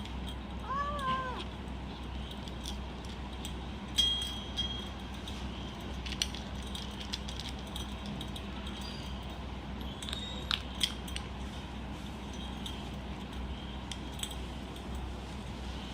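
Kitten eating dry cat food: scattered sharp crunches and clinks of kibble against the bowl, with one short rising-and-falling call from the kitten about a second in.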